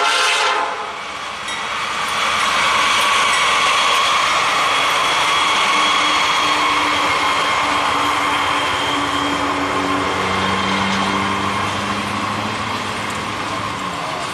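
Norfolk Southern freight train led by two GE AC44C6M diesel locomotives: a locomotive horn blast cuts off about half a second in. The train then passes close by, a long string of double-stack container cars with a steady rumble of wheels on the rails.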